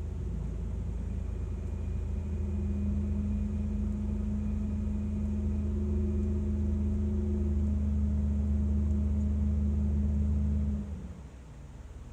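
Car engine running steadily with a low hum, then cutting off suddenly about eleven seconds in.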